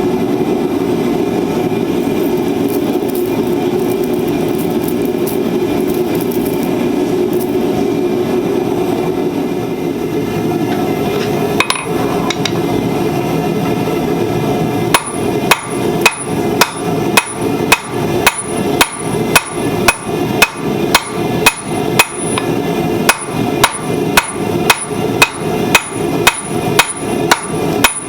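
Blacksmith's hammer striking hot steel on an anvil while forging tongs, in even blows about two a second, each with a high metallic ring. They start about halfway through, after one lone blow; before them is a steady rushing noise.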